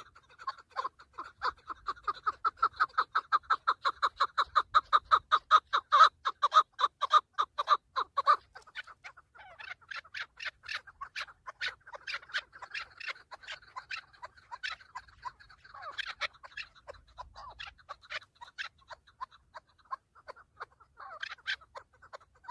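Chukar partridge calling: a fast run of repeated clucks, about five a second, that builds for several seconds, then breaks into slower, scattered clucks.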